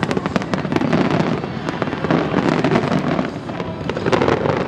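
Aerial fireworks bursting in a rapid, dense string of bangs and crackles.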